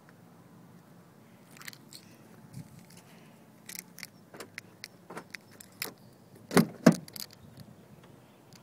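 Car keys jangling amid a run of small clicks, with two loud knocks close together about six and a half seconds in.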